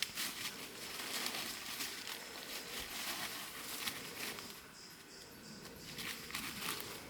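Footsteps crunching and rustling along a damp hillside trail, an irregular run of crackles and scuffs, busiest in the first few seconds and again near the end.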